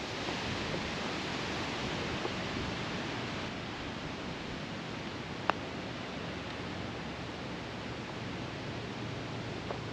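Wind blowing across the microphone in a steady rush, with one short sharp click about five and a half seconds in.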